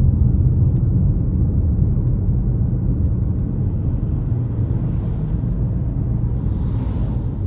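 Car driving on a road: a steady low rumble of engine and tyres. A brief high hiss comes about five seconds in, and a softer hiss swells and fades near the end.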